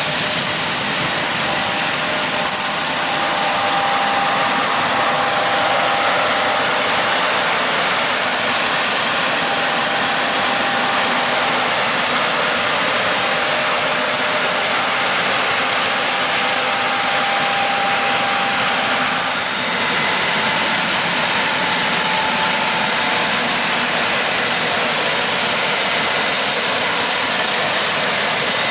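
Combine harvester running while harvesting corn: a steady, loud mechanical din with faint whines, dipping briefly about two-thirds of the way through.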